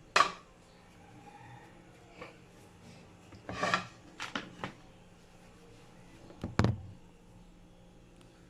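Kitchenware being handled: a sharp clink just after the start, a short rattle about three and a half seconds in, a few light clicks, then a heavier knock near the end.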